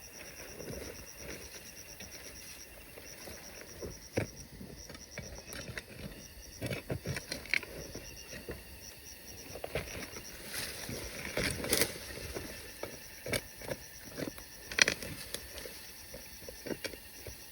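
An insect chirps in rapid, high-pitched pulses for the first few seconds, over scattered knocks and scrapes. The knocks are loudest about fifteen seconds in.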